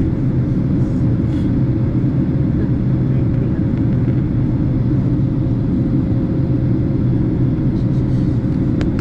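Steady low drone of a Boeing 767 passenger cabin in flight, the jet engines and airflow making a constant rumble with a faint steady hum above it.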